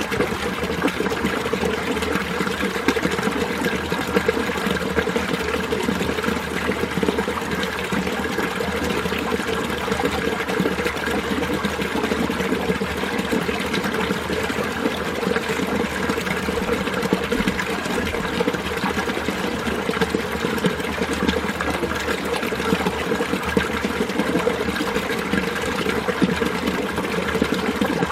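Mountain stream water flowing and babbling in a steady, unbroken rush.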